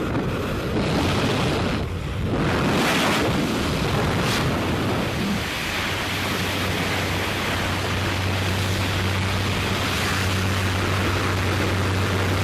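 Loud rushing wind buffeting the microphone during a skydive, with a steady low drone that comes in about halfway through.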